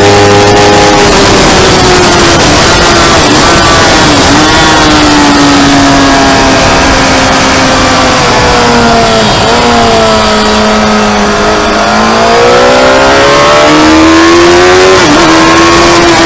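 Motorcycle engine running hard at track speed, with a heavy rush of wind. Its note dips briefly at each gear change, sinks slowly through the middle as the bike slows, then climbs again near the end.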